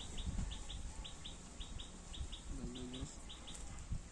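A small bird calling a short high double chirp, repeated about twice a second, over a steady low background rumble.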